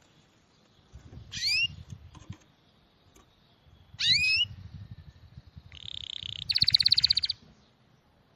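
A small songbird calling: two short rising whistles about three seconds apart, then a buzzy note running straight into a loud, fast rattling trill near the end.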